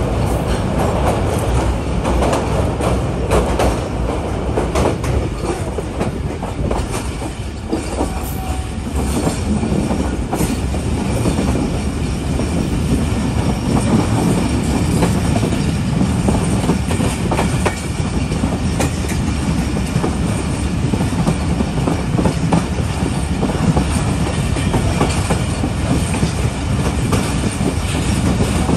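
Passenger train running along the track: a steady heavy rumble of wheels on rails with a continual clatter of clicks over the rail joints.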